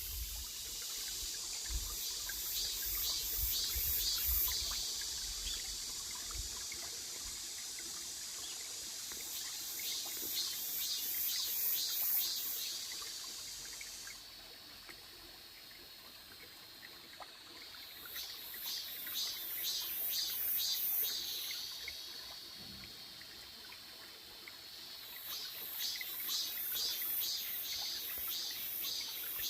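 Cicadas singing: a pulsing buzz, about three pulses a second, swells and fades in four bouts of a few seconds each over a steady high buzz.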